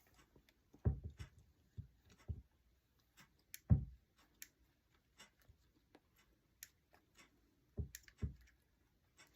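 Scattered soft clicks, taps and a few light knocks from handling small craft pieces and a toy truck on a tabletop.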